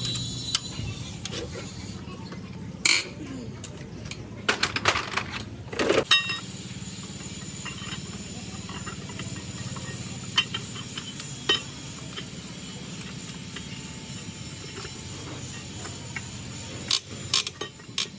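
Scattered metallic clinks and knocks of tools and metal engine parts being handled, over a steady low hum: a single knock about three seconds in, a quick cluster a little later, and a few more near the end.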